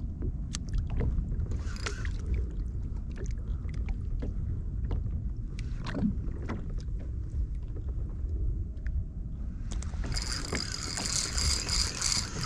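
Water and handling noise aboard a fishing kayak while a hooked fish is brought in: a steady low rumble with scattered sharp knocks and clicks, and a louder hissing rush starting near the end.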